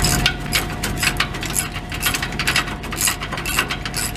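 Ratchet wrench clicking in quick, uneven strokes, several clicks a second, as exhaust bracket bolts are worked loose.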